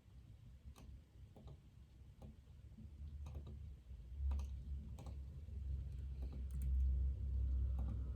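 Computer keyboard being typed on in scattered, irregular keystrokes, a dozen or so with pauses between them, over a low rumble that swells from about the middle.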